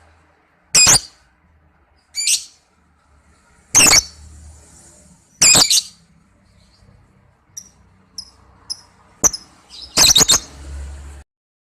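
Lovebird calling with loud, shrill, short chirps, about six sharp calls spaced a second or two apart, with a few faint short chirps between them in the middle.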